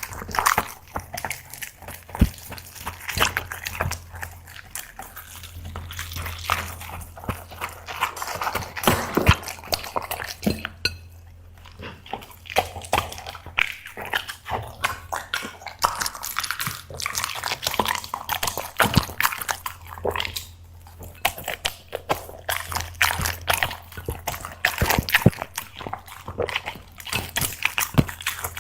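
Black Labrador eating, with wet mouth smacking and irregular crunching clicks from chewing, over a faint steady low hum.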